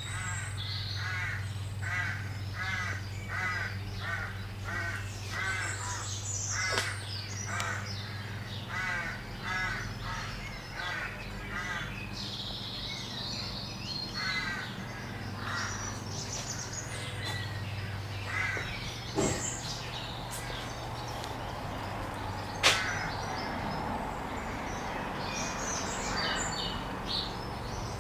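A bird calling over and over, about two calls a second for ten seconds or so, then scattered calls. A low steady hum runs underneath at first and stops about halfway, and a single sharp knock comes about two-thirds of the way through.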